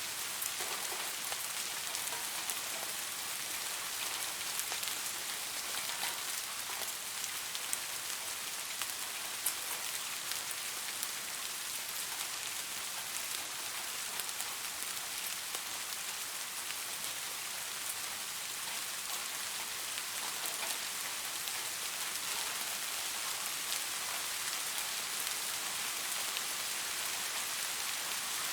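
Steady rain falling on leaves: an even hiss with many small drop ticks scattered through it.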